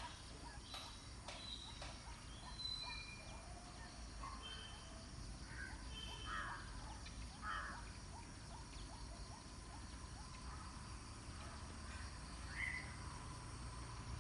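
Faint pond-side ambience with birds giving short high chirps and whistles now and then. Under them runs a quick, even ticking that fades out about two-thirds of the way through, over a steady low background rumble.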